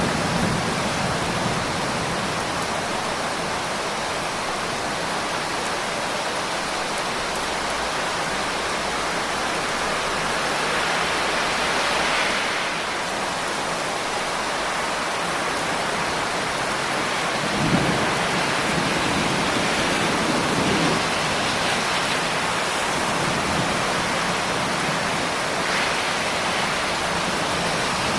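Steady heavy rain, a dense even hiss of falling drops. Brief low rumbles come a little past the middle.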